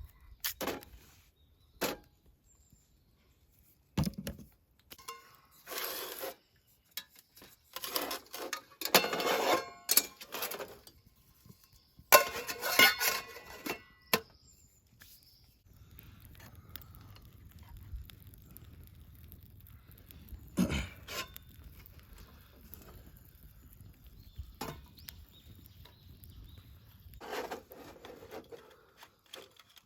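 Objects being handled by hand: scattered knocks and clicks, with two longer spells of clattering in the first half and a single sharp knock later.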